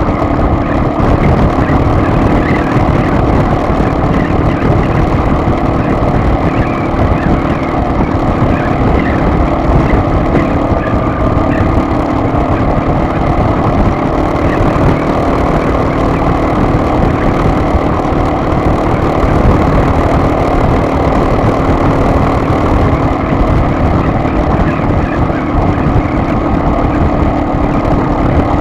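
Car driving at a steady pace: engine hum mixed with road and tyre noise, loud and unbroken throughout.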